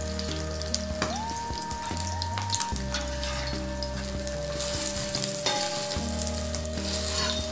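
Potato tikkis shallow-frying in hot oil on a tawa, a steady sizzle, with a metal spatula clicking and scraping against the pan as they are turned. The sizzle swells louder for about a second near the middle.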